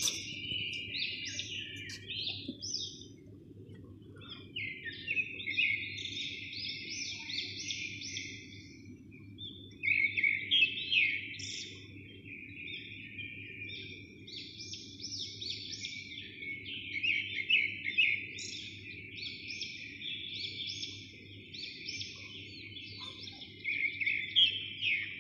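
Small birds chirping continuously in dense, quick calls, a little louder in spells, over a faint steady low hum.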